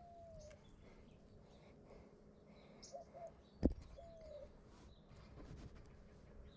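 A bird calling faintly in short whistled notes, each slightly falling in pitch, a few times over quiet outdoor background. A single sharp knock about halfway through is the loudest sound.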